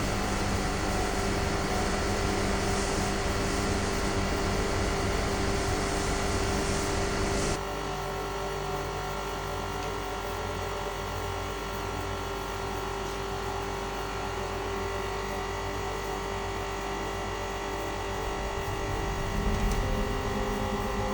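Motor-generator rig running with a steady hum and whine made of several constant tones. The sound drops abruptly in level about seven and a half seconds in, then carries on steadily.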